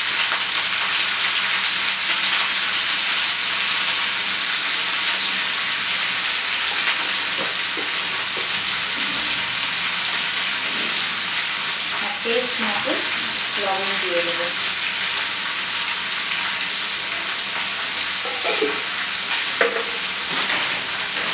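Mixed vegetables frying in hot oil in a black iron kadai on a gas flame: a steady, even sizzle.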